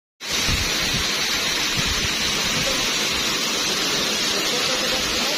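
Waterfall rushing with a steady, even roar of falling water, cutting in suddenly just after the start.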